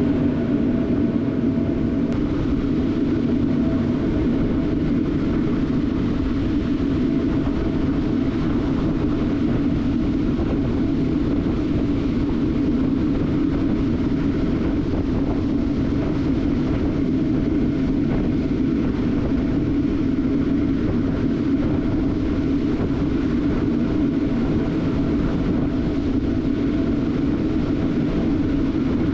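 Propane forge burners firing into a homemade beer-keg furnace: a loud, steady, unbroken roar with a low resonant hum.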